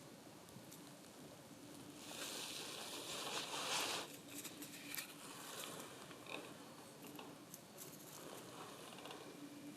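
Dry grass and leaf litter rustling and ticking as black-faced buntings forage on the ground, with a louder stretch of rustling about two seconds in that stops sharply about two seconds later.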